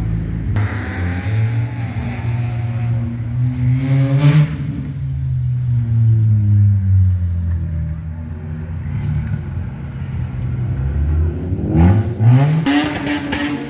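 Car engines rumbling and revving as cars drive past. The engine note climbs sharply about four seconds in, then settles, and climbs steeply again near the end, with sharp crackles over it.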